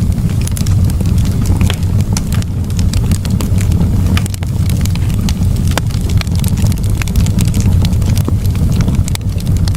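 Campfire burning: a steady low rumble with frequent, irregular crackles and pops from the burning wood.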